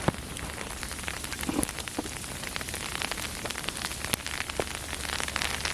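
Steady pattering of falling precipitation on outdoor surfaces: a dense run of small ticks over a soft hiss.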